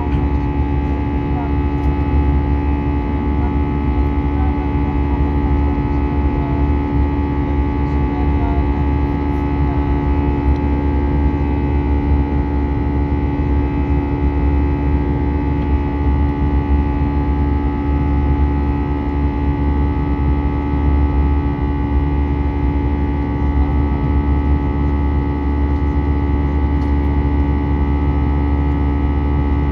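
Steady cabin drone of an Airbus A320 in flight: engine and airflow noise with a deep rumble and several steady tones over it, unchanging throughout.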